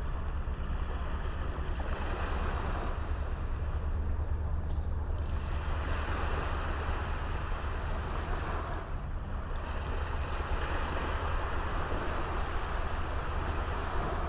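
Small waves washing onto a beach, the surf swelling and easing three times, over a steady low rumble of wind on the microphone.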